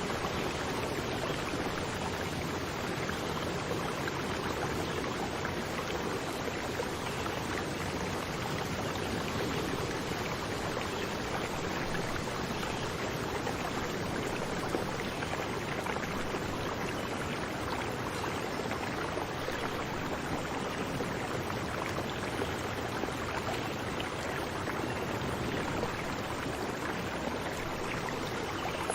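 Running water rushing steadily, an even unbroken wash of noise.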